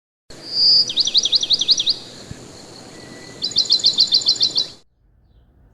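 A songbird singing: a short high whistle, then a run of about six quick down-slurred notes, and about three seconds in a second, faster run of about ten notes, over a steady outdoor background hiss.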